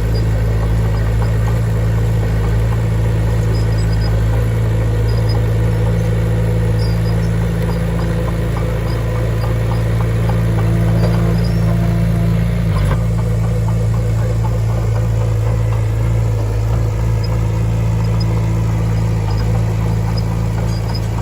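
Diesel engine of heavy earthmoving equipment running steadily at a constant speed, with one short click about two-thirds of the way through.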